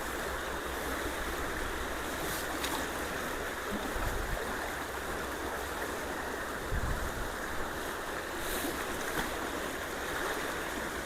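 Creek water rushing steadily, a swift current. A couple of brief low thumps come about four and seven seconds in.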